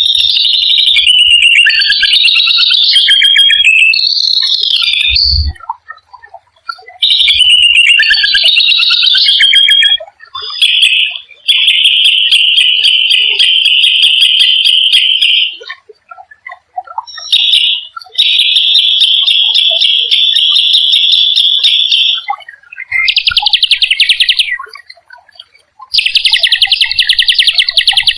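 Small songbird singing loudly in phrases a few seconds long: varied warbling phrases in the first half, then fast, even rolling trills, with short pauses between phrases.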